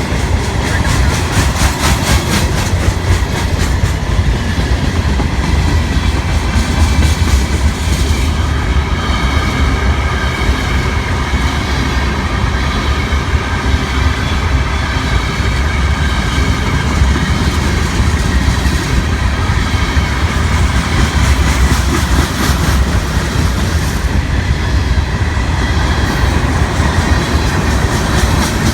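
Freight train cars rolling past, a steady rumble with the wheels clacking rhythmically over the rail joints.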